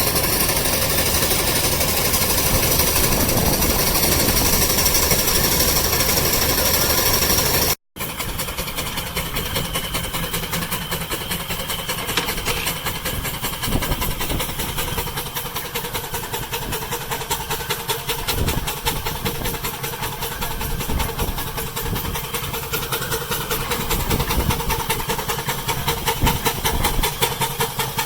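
Homemade steam tractor running and driving a straw baler: a loud, even hiss for the first several seconds, then, after an abrupt cut about eight seconds in, a fast, steady rhythmic beat of the working machinery.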